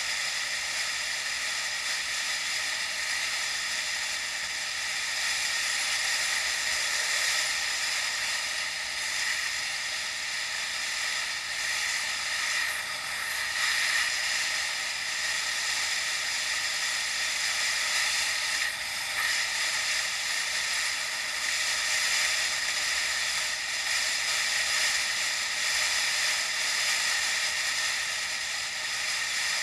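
Steady rushing hiss of wind and rolling noise picked up by an action camera on a moving bicycle, rising and falling a little.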